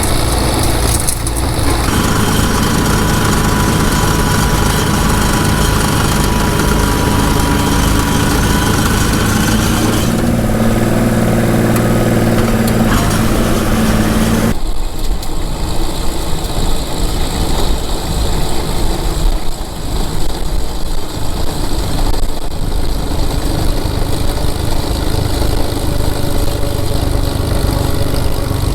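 Small Ford tractor engine running steadily. About halfway through the sound changes abruptly to a low, uneven rumble with less of the higher noise.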